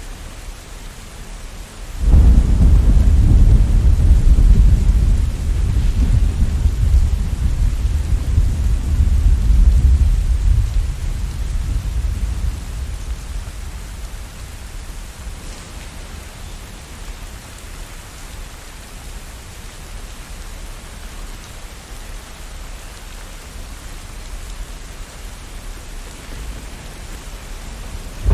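Steady rain with a deep rumble of thunder that breaks in suddenly about two seconds in, rolls on for about ten seconds and dies away, leaving the rain alone.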